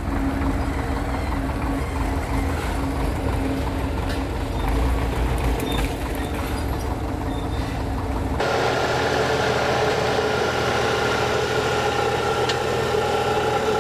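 Heavy road-works vehicle engine running with a low rumble. About eight seconds in the sound switches abruptly to a different, higher and steadier machine drone.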